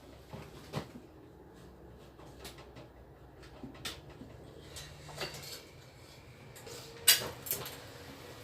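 Scattered knocks and clinks of metal parts or tools being handled, a few spaced seconds apart, the loudest about seven seconds in.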